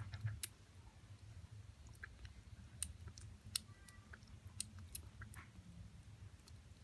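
Persian kitten lapping milk: faint, irregular small clicks and smacks of its tongue.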